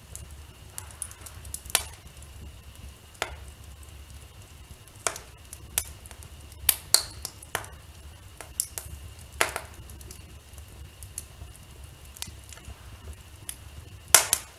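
Wood fire in a fireplace crackling: irregular sharp pops and snaps over a steady low hum, the loudest pop near the end.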